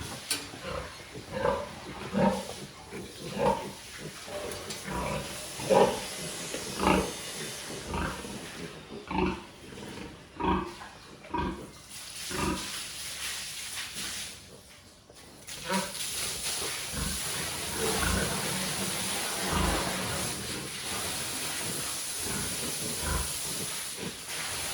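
Pigs grunting and squealing in a run of short calls, then a steady hiss takes over a little past halfway.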